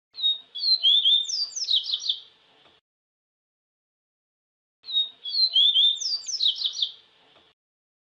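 A papa-capim (Sporophila seedeater) singing a quick song of sliding whistled notes. The same phrase comes twice, each about two and a half seconds long, the second about five seconds after the first.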